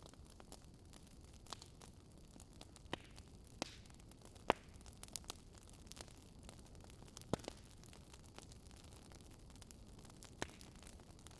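Fire crackling: scattered sharp pops over a low steady hiss, the loudest pop about four and a half seconds in.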